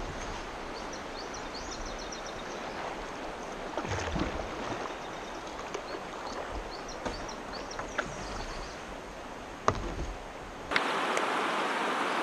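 Kayak paddling on a calm lake: a steady wash of water with a few knocks from the paddle. About eleven seconds in, a steady rush of water from small rock rapids takes over.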